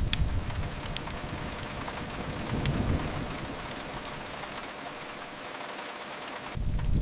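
Steady rain on a window with a few sharp crackles of a wood fire. Underneath, a low rumble fades over the first second, swells briefly around the middle and comes back near the end.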